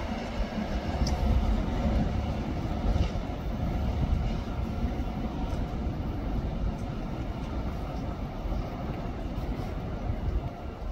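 Deutsche Bahn ICE high-speed electric train running past at low speed and drawing away: a steady rumble with a faint hum that fades within the first second or two.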